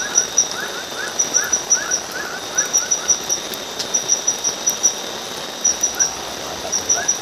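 Forest insects at night: a cricket-like insect chirping in quick runs of four or five pulses, about one run a second, over a steady high insect drone. A row of short rising calls from another small animal runs through the first half and comes back near the end.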